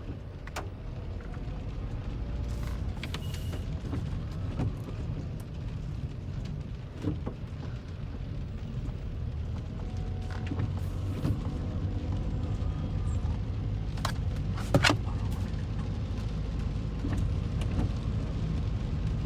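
Steady low rumble of a car driving, with scattered light clicks and a couple of sharper knocks about fourteen to fifteen seconds in.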